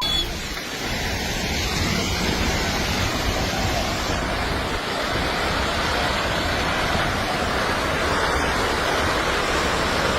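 Landslide debris flowing downhill in a steady, intense rushing noise that sounds like a raging river.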